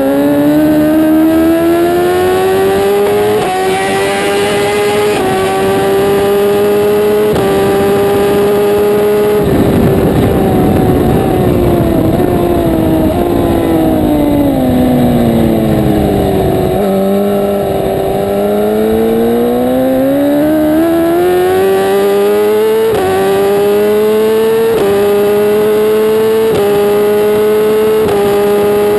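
A 1000 cc racing superbike engine at full throttle, its pitch climbing and dropping back with each upshift about every two seconds. About ten seconds in, the revs fall away over several seconds as the bike slows. Then it accelerates again up through the gears.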